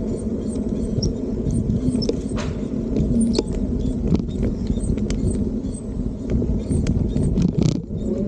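Wind buffeting the microphone and road rumble while riding an electric bike, steady throughout, with scattered sharp clicks and rattles.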